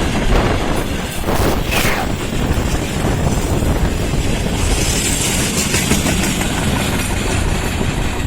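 Freight train rolling past, its wheels rumbling and clattering over the rail joints, with a few sharper clacks about a second and a half in.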